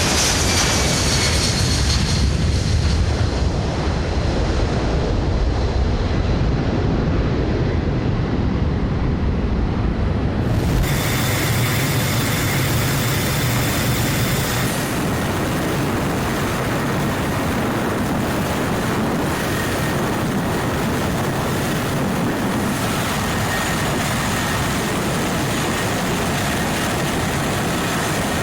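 C-17 Globemaster III jet engines running, a steady loud noise with a deep rumble and a faint whine that falls slightly in pitch early on. About eleven seconds in the sound changes abruptly: the deep rumble drops away and a brighter, hissing noise continues.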